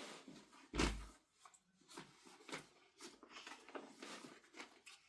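Irregular rustling and knocking, as of things being handled, with one loud thump just under a second in.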